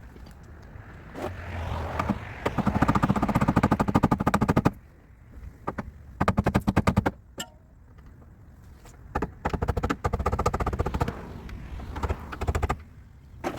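Sped-up workshop noise from a car being stripped: bursts of rapid clattering, the longest a few seconds in and shorter ones around the middle and later, with quieter stretches between.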